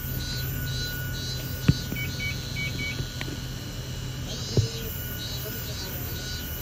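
Hakone Tozan Railway Moha 1 train car with a steady low hum and a steady high tone, overlaid by rhythmic high chirping about twice a second that pauses midway. Two sharp clicks, a little under two seconds in and again about four and a half seconds in.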